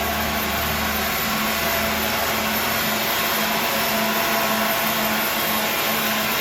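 A machine running steadily: a loud, even whirring noise with a faint low hum underneath.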